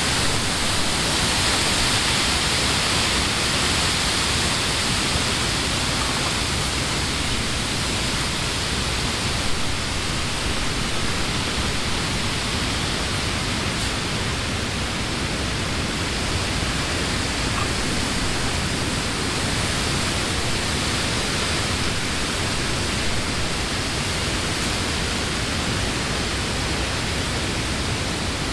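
Wind blowing through leafy trees: a steady rushing rustle of leaves, a little stronger in the first few seconds.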